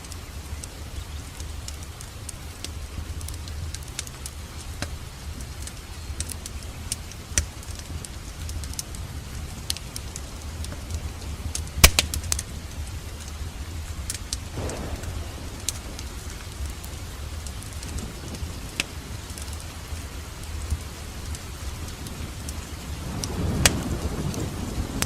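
Wood fire crackling in a fireplace: scattered sharp pops and crackles over a steady low rumble, with one loud pop about twelve seconds in and a swell of louder rumble near the end.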